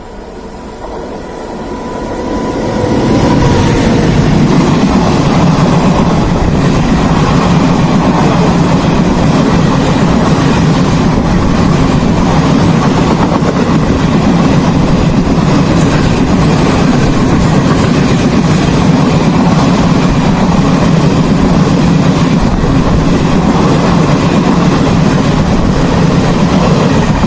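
An express train passing at speed on the next track: its noise builds over the first three seconds into a loud, steady rush of wheels and carriages, like a storm.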